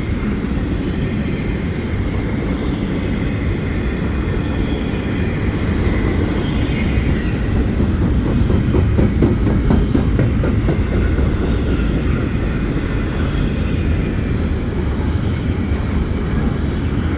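Double-stack freight cars rolling past: a steady, loud rumble of steel wheels on rail.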